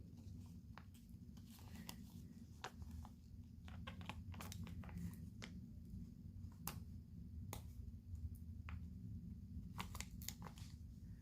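Scattered small clicks, taps and light rustles of nail-art tools and materials being handled, over a faint steady low hum.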